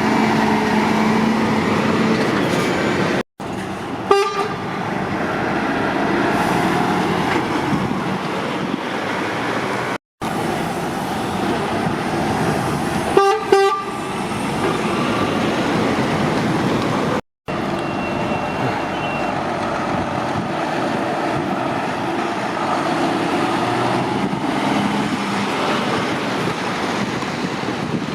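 Heavy lorries and traffic running steadily, engine and tyre noise, with brief louder sounds about four and thirteen seconds in. The sound drops out abruptly three times.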